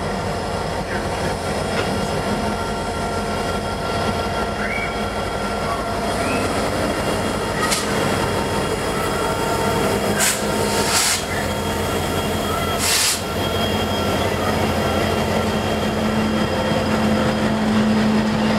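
Union Pacific diesel locomotives passing close by, hauling a double-stack container train: a loud, steady engine drone and rolling rail noise, with a few short bursts of high-pitched hissing noise in the middle.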